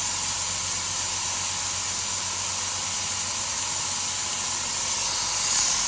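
Air blow gun held open, venting a steady, high hiss of compressed air from a SIP QT100/10 compressor, with a low steady hum underneath. It is a continuous-flow test, in which the compressor sustains about 6 bar.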